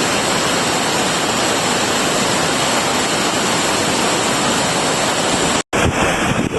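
Rushing water of river rapids: a steady, loud, even hiss of white water. It breaks off abruptly near the end at a cut.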